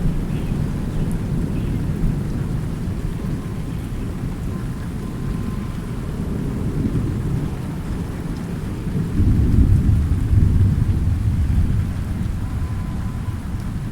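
Steady rain with a continuous low rolling thunder rumble, the thunder swelling louder about two-thirds of the way through before easing back.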